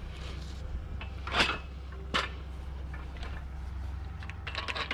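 A shelving rack being handled: two sharp knocks about a second apart, then a quick run of small clicks and rattles near the end, over a low steady hum.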